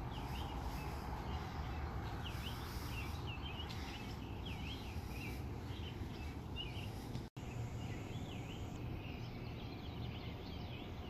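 Small birds chirping repeatedly over a steady low outdoor rumble. The sound cuts out for an instant about seven seconds in.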